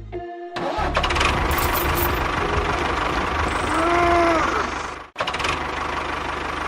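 Small tractor-type engine running steadily with a fast, rattling knock, with a brief rising-and-falling whine about four seconds in. The sound cuts out for an instant near the end, then carries on.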